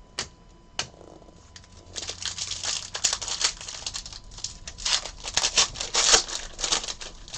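Crinkling and tearing of a trading-card pack's foil wrapper being handled and torn open: two light clicks, then from about two seconds in a dense run of rustles lasting several seconds.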